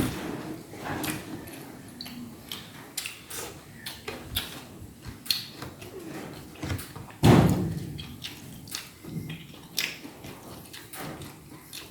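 A person eating roast chicken close to the microphone: irregular mouth clicks, smacks and chewing crackles, with one louder burst about seven seconds in.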